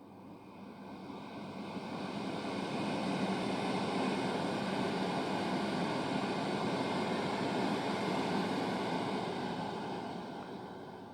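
GWR Class 802 train passing through: a steady rumble builds over about three seconds, holds for several seconds and fades away near the end.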